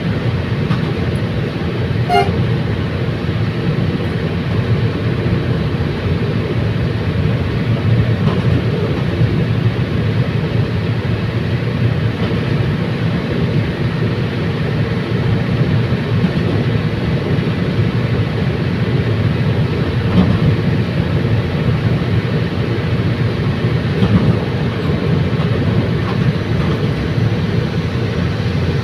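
Commuter train running along the track: a steady, continuous rumble of engine and wheels on the rails.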